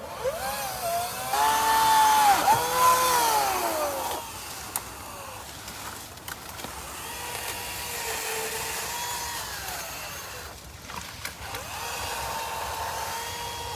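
Chainsaw engine revving, its pitch rising and falling. It is loudest for the first few seconds, then runs at a steadier, lower pitch.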